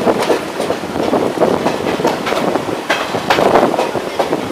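Passenger train rolling into a station, its wheels clicking irregularly over rail joints and points.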